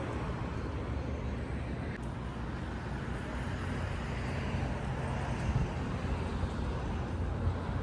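Steady low road and engine rumble of a car driving.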